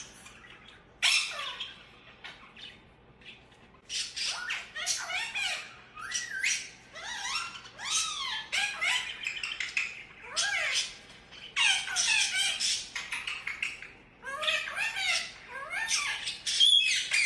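Pet parrots squawking and chattering in repeated bursts of quick calls that slide down in pitch, with a short lull a couple of seconds in.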